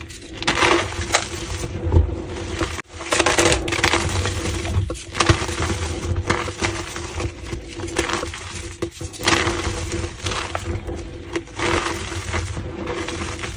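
Blocks of gym chalk being crushed, a run of irregular dry crunches and crumbles, several a second, with a faint steady hum beneath.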